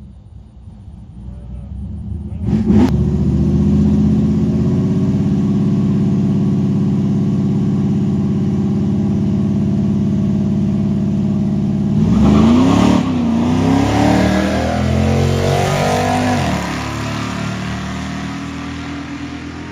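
Car engine running loudly at a steady pitch, then revved up and down about twelve seconds in, and fading near the end. A sharp click comes just before the engine sound begins.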